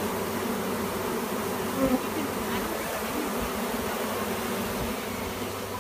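Steady, dense buzz of a large swarm of honey bees moving into a hive box, briefly louder about two seconds in.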